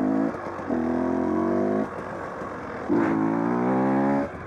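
Two-stroke dirt bike engine revving hard under throttle in three pulls, its pitch holding or climbing slightly in each, with the throttle chopped between them. The rider is trying to lift a wheelie from a rolling start in about third gear.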